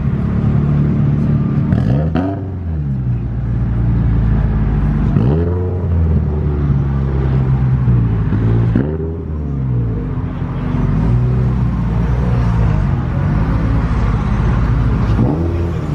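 Scion FR-S's flat-four engine idling, blipped hard on the throttle about five times, each rev rising sharply in pitch and dropping straight back to idle.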